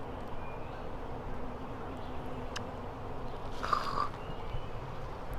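Honeybees humming steadily around an open hive as its frames are handled, a low continuous drone. A brief rustle or scrape comes through about three and a half seconds in.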